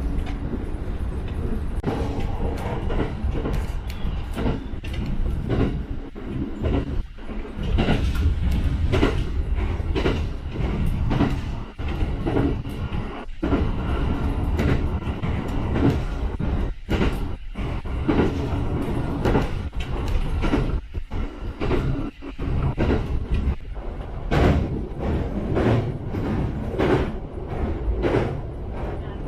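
Running noise of a Shinano Railway SR1-series electric train at speed, heard inside the carriage: a steady low rumble with frequent irregular clicks and knocks from the wheels over the rails.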